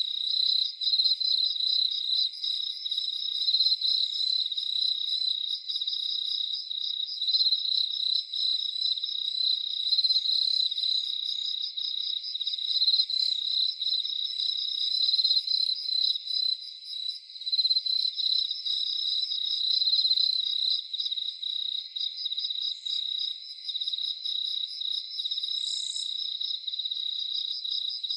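Crickets chirping in a dense, continuous high trill, pulsing rapidly and steadily, with fainter higher insect chirps over it.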